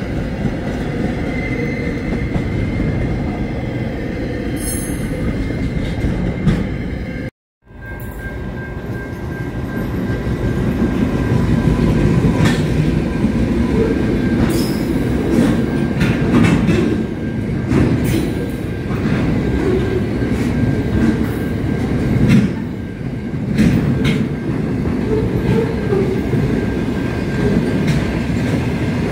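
A container freight train rolling past with a steady rumble of wheels on rail. About seven seconds in, the sound cuts out briefly, and then another train passes with wheels clacking over the rail joints and a thin, steady squeal.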